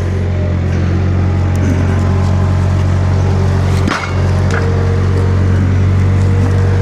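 Skid steer engine running steadily at a low, even pitch, with a brief dip and a click about four seconds in.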